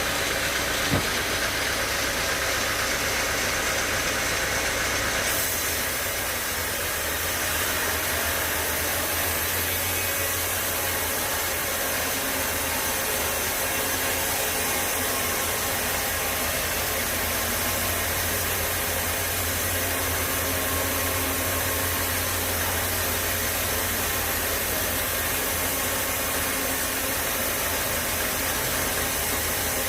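Sawmill machinery running steadily, a continuous mechanical hum and noise, with one short click about a second in.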